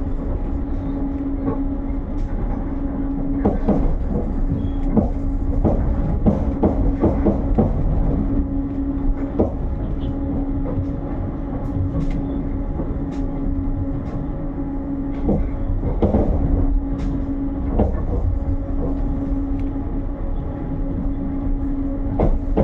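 Passenger train carriage running along the line: a steady low rumble with a constant hum, and irregular sharp clacks of the wheels over rail joints, some coming in quick clusters.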